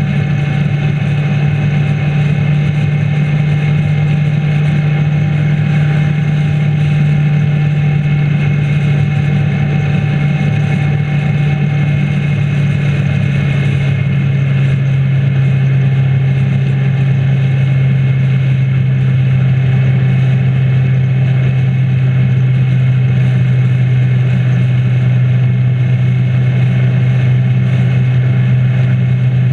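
Motorcycle engine droning steadily under way at cruising speed, with wind and road noise over it. The engine note settles slightly lower about halfway through.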